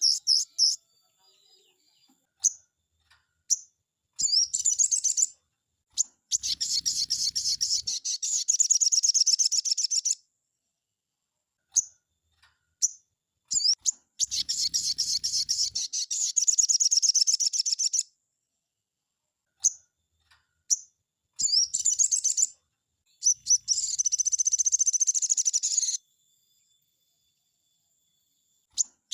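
Sogon songbird singing in bursts of fast, high-pitched chattering trills, each a few seconds long, with short single notes and silent pauses between the bursts.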